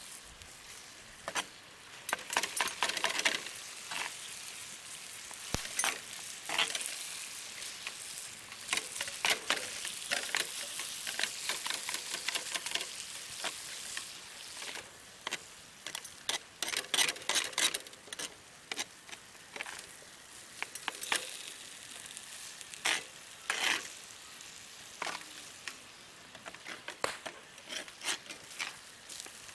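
Yakisoba noodles sizzling in a frying pan, with repeated scrapes and clicks of a spatula stirring them.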